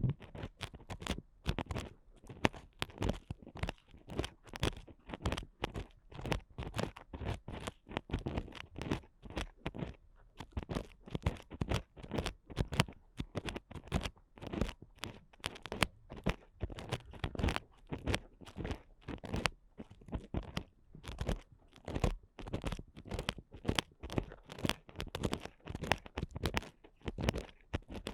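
Ear picks scratching and scraping inside a microphone's ear in a continuous run of rapid, irregular crunchy strokes, several a second.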